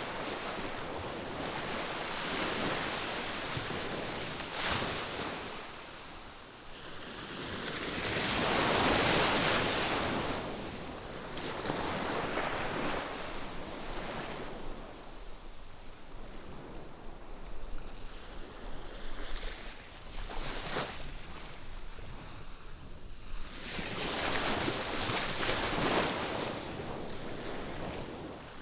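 Ocean surf: waves breaking and washing up the shore in slow swells, one louder surge about a third of the way in and another near the end.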